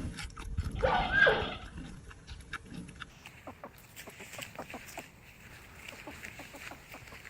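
An animal call about a second in, a short pitched cry that bends in pitch, followed by scattered soft clicks and taps.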